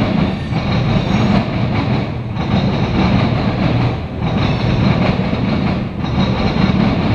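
Covered hopper cars of a CSX grain train rolling past, their steel wheels rumbling steadily on the rails, with a short dip in the sound about every two seconds.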